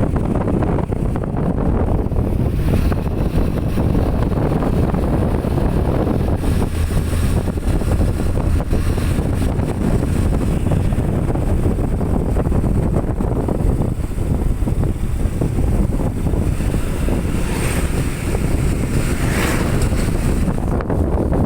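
Wind buffeting the microphone of a moving motorcycle, a loud steady low rumble with the ride's road and engine noise underneath.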